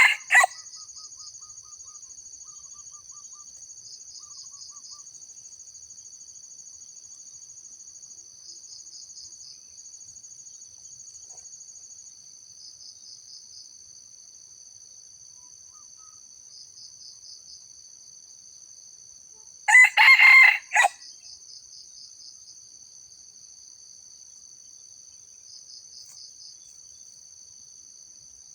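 A junglefowl rooster crows: the end of one crow right at the start and one loud, short crow of about a second about twenty seconds in. Between them a steady high insect chorus buzzes, with pulsed chirping repeating every second or two.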